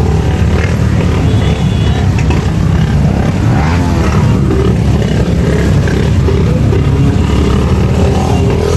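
Superbike engines running, a steady loud low rumble with a brief shift in pitch near the middle.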